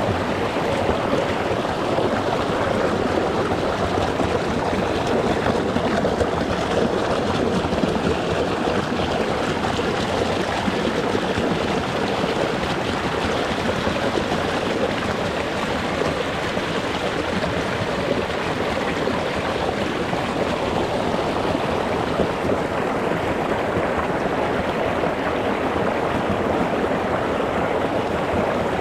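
Small rocky stream running over stones, a steady rushing and babbling of water close to the surface.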